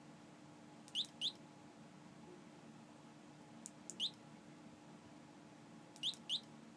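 A small bird chirping faintly: quick rising chirps, in pairs about a second in and near the end, with a single one about four seconds in, over a faint steady hum.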